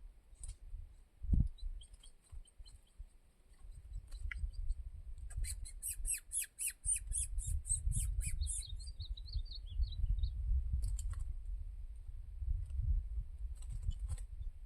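A bird chirping: a quick run of short, sharp chirps about a third of the way in, ending in a brief higher trill, over a low rumble of wind on the microphone.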